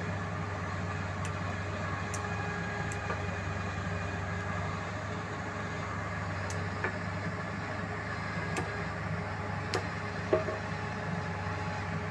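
Engine of a heavy farm machine running steadily at a constant speed, with a few light clicks and a sharper knock about ten seconds in.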